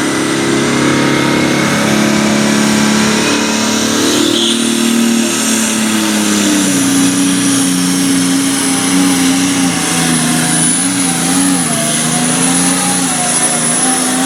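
Super stock pulling tractor engine at full throttle under heavy load. Its pitch drops about five seconds in, then holds with small wavers, and a high steady whine runs over it.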